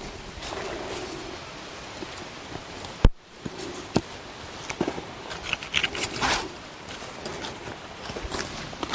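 Newly lit campfire, kindled with dry-fuel tablets, burning with a steady hiss and scattered crackles, with one sharp knock about three seconds in.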